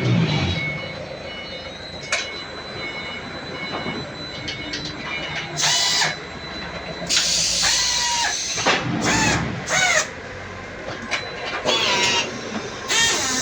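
Automatic concrete brick stacking machine running, with a steady mechanical background broken by several loud bursts of hissing air, some with a squealing whine inside them.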